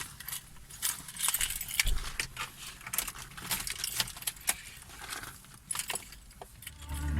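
A bunch of keys jangling and clinking in quick irregular jingles, with a low rumble rising about two seconds in and again near the end.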